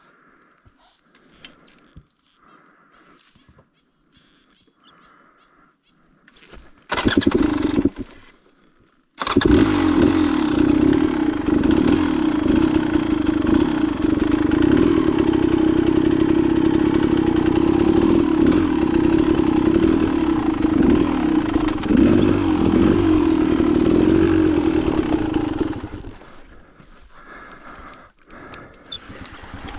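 Dirt bike engine being started: a brief loud burst about seven seconds in, then the engine catches about two seconds later and runs loudly with small changes in revs until it drops away near the end.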